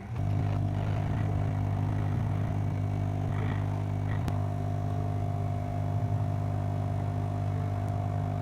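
Hot air rework station's blower running at a steady pitch while the sound IC is desoldered. It switches on abruptly, and a few faint clicks sound over it.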